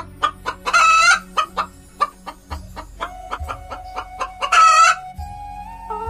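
Hen clucking in a quick run of short calls, with two louder drawn-out squawking calls, one about a second in and one near the end.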